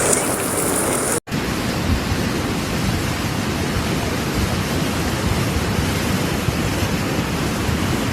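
Steady rushing noise of floodwater, with a clip cut just over a second in where the sound briefly drops out.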